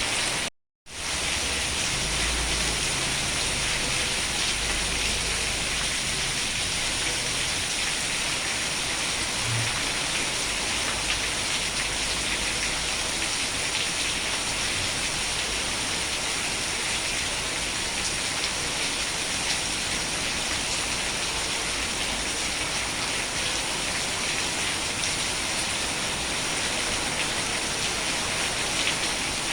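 Steady heavy rain falling, an even hiss without let-up. The sound cuts out completely for a fraction of a second about half a second in, like an edit splice, then the rain resumes.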